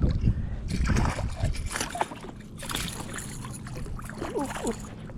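Water splashing and sloshing as a small hooked bass thrashes at the surface and is brought to the kayak, in irregular bursts.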